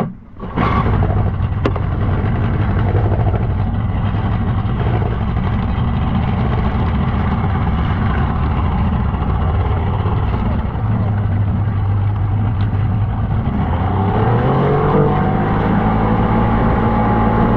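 Outboard jet motor on an inflatable boat running steadily under way. About fourteen seconds in its pitch rises and holds higher as the throttle opens.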